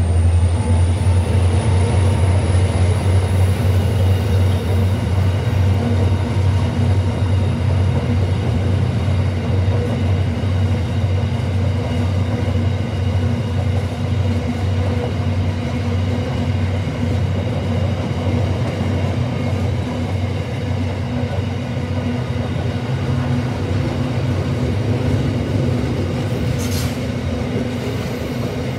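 Freight train's container wagons rolling past close by: a loud, steady rumble with rapid clatter of wheels on the rails.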